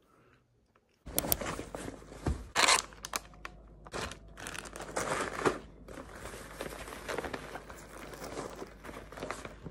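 Close rustling and crinkling handling noise, like something being crumpled or moved about near the microphone. It starts suddenly about a second in and carries on, with a few sharp crunches and clicks.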